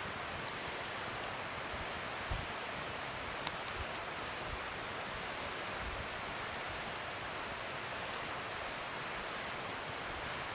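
Bonfire burning: a steady hiss with a few sharp pops, the clearest about three and a half seconds in, and a short low thump a little after two seconds.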